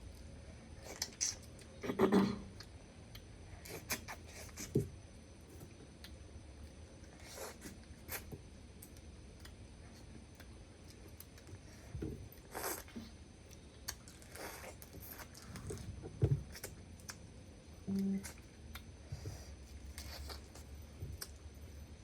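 Close-up eating sounds: scattered clicks, cracks and crunches as mud crab is picked apart and chewed, with the loudest crunches about two seconds in and again past the middle.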